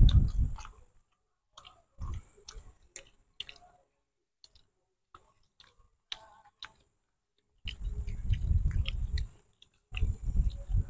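Close-up chewing and wet lip-smacking of people eating grilled chicken by hand, with short sharp clicks scattered throughout. About two-thirds of the way through, and again near the end, a loud low rumble covers it.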